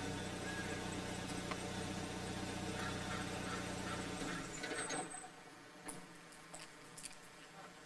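Car engine idling steadily, then switched off a little over halfway through. A brief high tone and a few faint clicks follow in the quiet.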